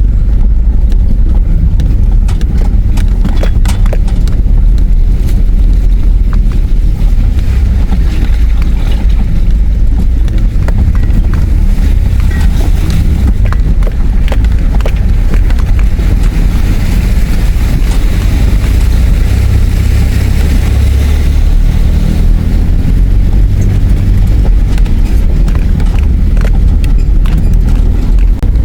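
4WD vehicle driven slowly in four-wheel-drive high range through a rocky river crossing: a steady low engine and drivetrain rumble with frequent irregular knocks and clunks from the wheels and suspension over rocks.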